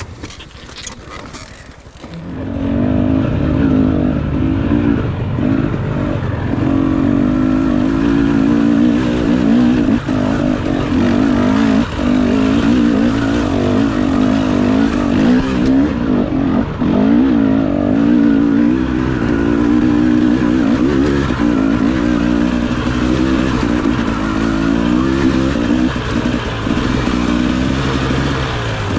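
Enduro dirt bike engine running under load, its pitch rising and falling with the throttle, after a quieter first two seconds with a few knocks.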